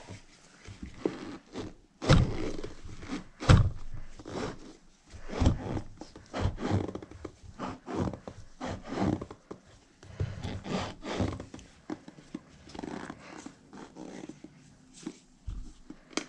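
Rubber paddle tire and foam insert being worked onto an RC car wheel by hand: irregular rubbing and scraping strokes, with two heavier thumps about two and three and a half seconds in.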